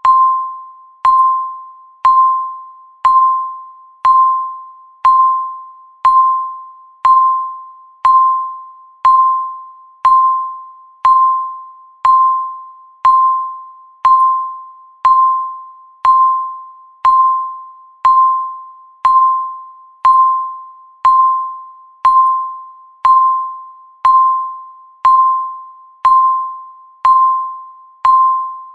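Countdown timer's electronic tick: a single short ringing ping once every second, each struck sharply and dying away before the next.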